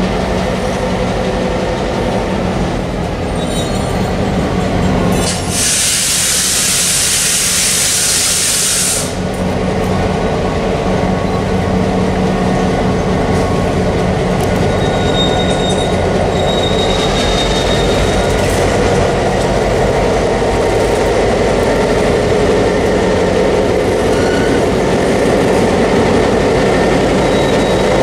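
Diesel locomotive of a passenger train rolling slowly in and past, its engine running steadily over the rumble of wheels on rail. A loud hiss starts about five seconds in and lasts about three seconds, and a faint high wheel squeal follows later.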